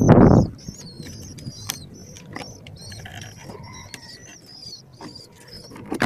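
Birds chirping repeatedly in short, high, wavering calls, with scattered small clicks. A short rustling thump comes at the very start and is the loudest sound.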